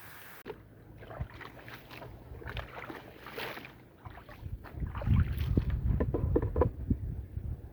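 A soaked, muddy rug being washed: irregular wet scrubbing and scraping with water splashing, getting louder and heavier about halfway through.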